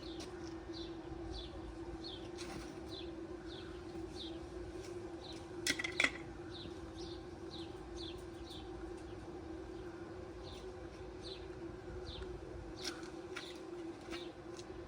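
A small bird chirping over and over in short, falling notes, about two a second, over a steady low hum. A couple of sharp clicks come about six seconds in.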